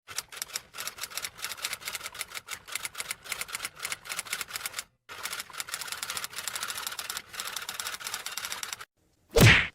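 Typewriter sound effect: rapid key strikes clacking in two runs, each about four seconds long with a brief pause between, then one louder single stroke near the end.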